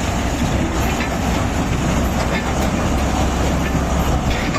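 Heavy mining machinery running: a steady, loud, low diesel rumble with a few faint clanks.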